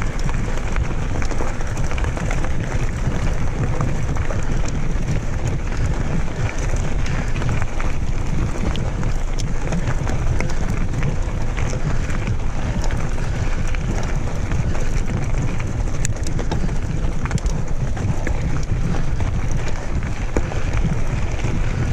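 Steady wind buffeting the microphone of a camera carried on a moving mountain bike, with scattered small ticks and crackles through it.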